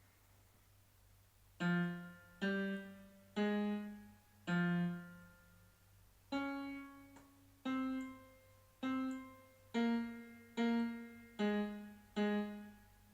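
Keyboard instrument played one note at a time, slowly picking out a melody as a teaching demonstration: about a dozen separate notes, each struck and left to fade. The notes begin after about a second and a half of quiet.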